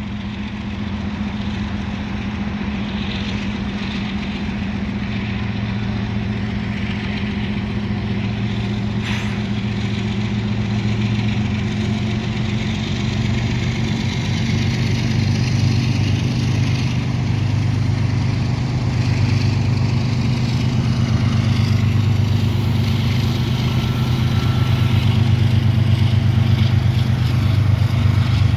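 GE diesel freight locomotives with GEVO V12 engines working under power as the train gets underway, a steady low engine drone that grows gradually louder.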